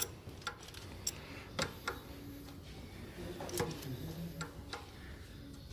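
Irregular sharp metallic clicks of a hand ratchet and socket extension being worked to run in new cam sprocket bolts, about one or two clicks a second.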